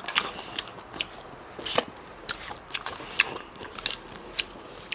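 A person chewing and biting seafood close to the microphone: a run of short, irregular clicks at a moderate level.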